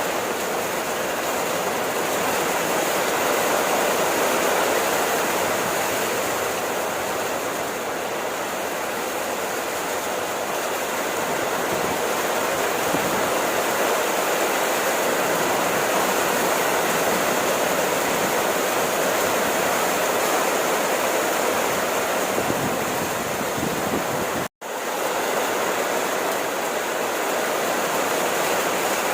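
Steady, dense rainfall, a constant even hiss of falling water. The sound cuts out completely for a split second near the end, then carries on.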